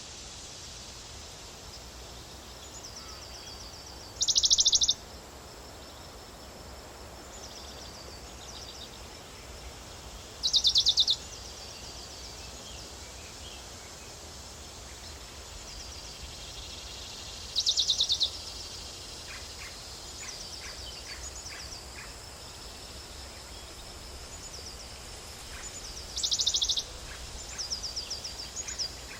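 Small birds singing: four loud, very high, rapid trills repeated about every six to seven seconds, with softer high chirping phrases between them, over a steady outdoor hiss.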